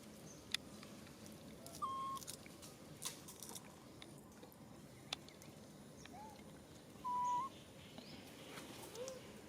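Short whistle-like animal calls: two clear flat notes, about 2 s and 7 s in, with a couple of fainter curved notes between and after. A few sharp clicks come in between.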